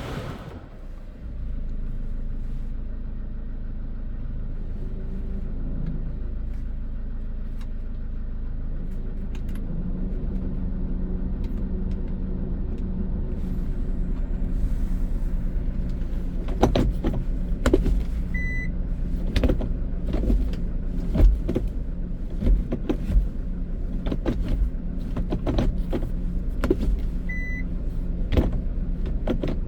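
Hyundai Porter II truck's diesel engine starting about a second in and then idling steadily. In the second half there are a series of clicks and knocks and two short beeps.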